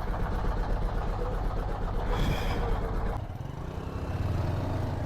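Motorcycle engine running with road and wind noise. About three seconds in it settles to a quieter, steadier low hum. A short high-pitched tone sounds about two seconds in.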